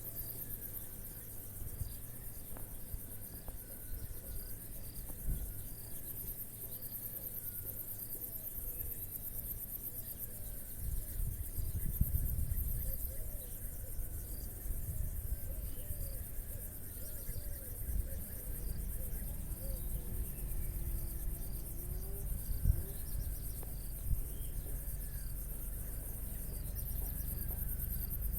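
Crickets chirring steadily at a high pitch, with a low rumble underneath and a few short knocks, the sharpest about two-thirds of the way through.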